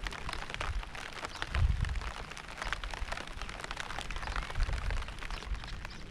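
Rain falling, a steady dense patter of drops, with deep low rumbles swelling up twice, near the second and the fifth second.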